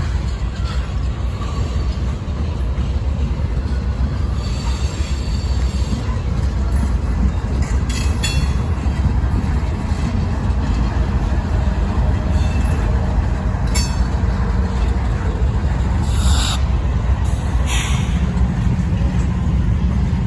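Freight train rolling past: a loud, steady rumble of wheels on rail, with short sharp wheel squeals and clanks several times.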